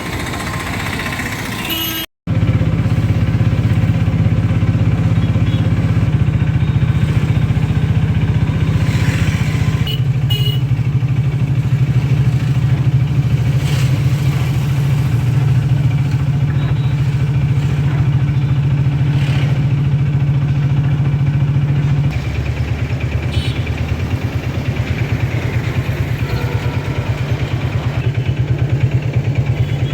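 A vehicle's engine, likely a motorcycle, running steadily as a low drone. A brief cut comes about two seconds in, and the drone drops a little in level about 22 seconds in.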